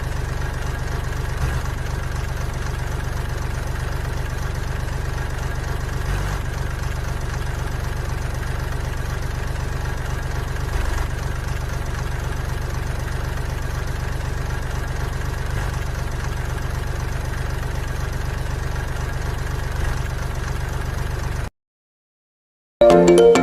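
Small DC motor of a homemade model tractor water tanker running with a steady hum. It cuts off abruptly near the end, and after a brief silence music starts.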